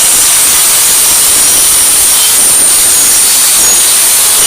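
Angle grinder with a cut-off disc cutting through the steel exhaust pipe: a loud, steady hiss with a high whine, stopping abruptly at the end as the tool is switched off.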